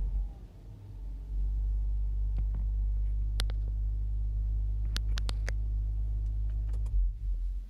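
Subaru Outback 3.6R's flat-six engine, breathing through WRX OEM mufflers, idling as heard from inside the cabin: a steady low rumble that settles in about a second after a rev and drops away near the end. A few light clicks sound over it.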